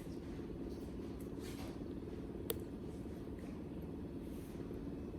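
Steady low hum with a single sharp click about halfway through.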